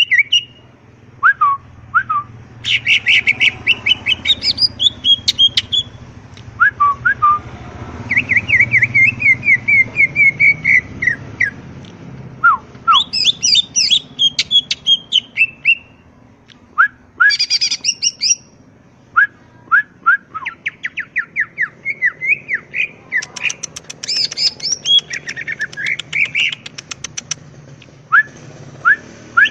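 Cucak ijo (green leafbird) singing a long, varied song of fast warbling and chattering phrases with short pauses between them: singing freely and continuously, what keepers call gacor.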